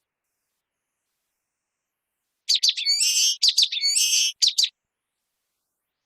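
Common waxbill singing: one short song phrase of quick high chirps broken by two buzzy notes, starting about halfway in and lasting about two seconds.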